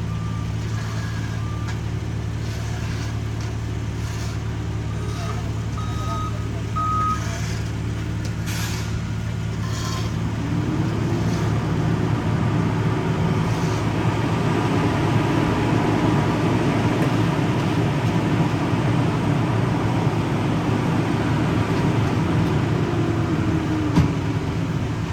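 Diesel engines of asphalt paving equipment running steadily. About ten seconds in, a second machine grows louder, its engine pitch rising and then falling again near the end. A few short high beeps sound about six to seven seconds in.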